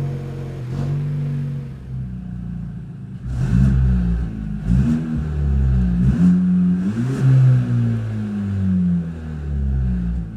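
Opel Astra K's 1.4-litre turbo petrol engine running loud through an exhaust whose pipe has rusted through and broken away. It idles with a deep rumble, then is revved briefly four times from about three seconds in.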